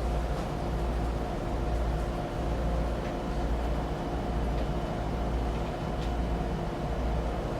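Steady hum of a stationary electric commuter train's onboard equipment while it stands waiting to depart, with a few faint ticks.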